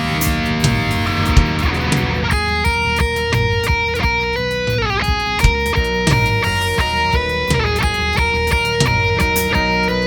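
Live rock band playing an instrumental passage: electric guitar chords with drums and bass, giving way about two seconds in to a lead guitar line of single notes with several string bends.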